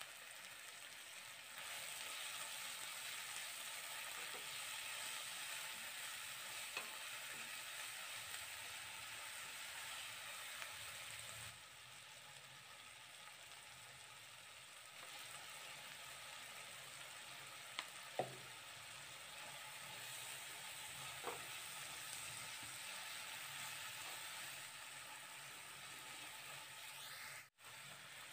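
Onions and tomatoes sizzling steadily in oil in a non-stick kadai, with stirring and a few light taps of a spatula on the pan.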